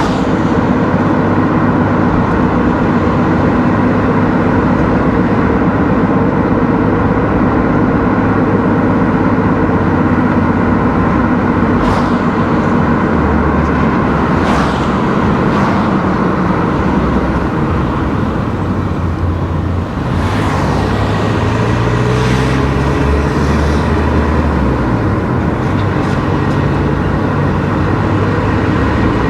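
A car being driven on the road: steady engine hum and tyre and road noise. The engine note shifts about two-thirds of the way through, and a few brief rushing swishes pass.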